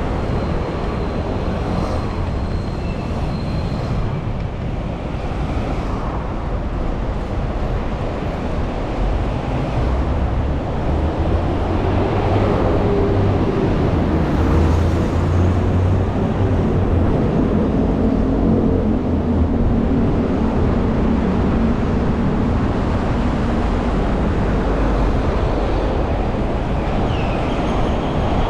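City street traffic heard from a bicycle: motor vehicles running past over a steady road rumble. It grows louder about a third of the way in, as a heavier engine drones close by.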